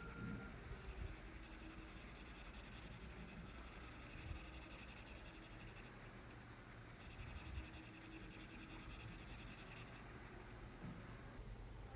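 Faint pencil on paper: quick back-and-forth shading strokes in two stretches, the graphite lightly scratching the sheet.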